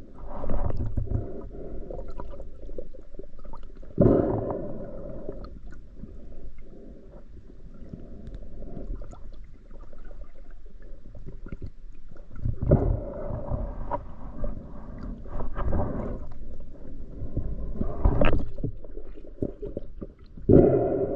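Muffled water sloshing and gurgling as a spearfisher swims, heard underwater, with louder surges every few seconds.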